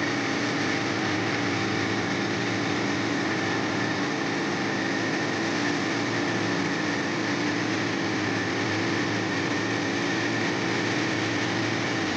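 An engine running steadily at a constant speed, an even, unchanging hum.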